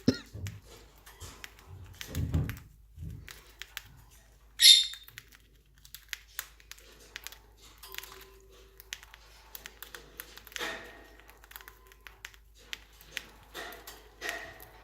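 Pet birds pecking seed from a hand: a scatter of small taps and clicks, with a few dull thumps around two seconds in and one short high-pitched sound about four and a half seconds in.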